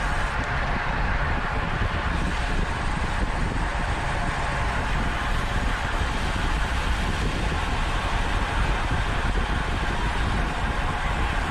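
Steady rush of wind and road noise on a camera microphone on a bicycle being raced at speed, with no change in level.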